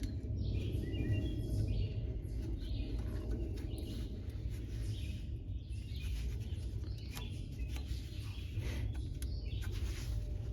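Small birds chirping now and then over a steady low background rumble, with a few light clicks.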